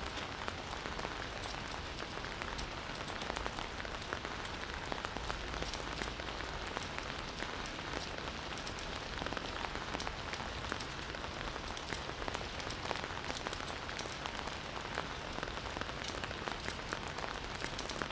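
Campfire burning with a steady hiss and a constant scatter of small crackles and pops from the wood.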